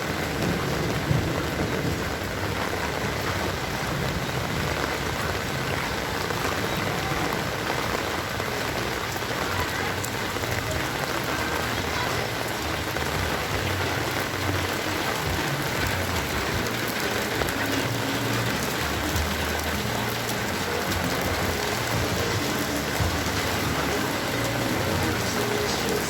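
Heavy rain falling steadily, an even hiss of rain pouring down.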